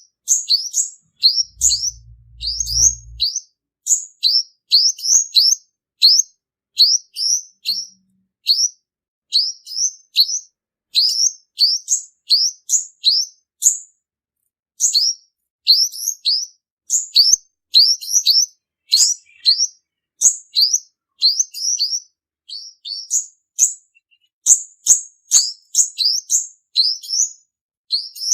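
Male olive-backed sunbird singing: a continuous run of short, high, downslurred chirps, about two or three a second, with only brief pauses, the kind of male song used as a lure call for trapping.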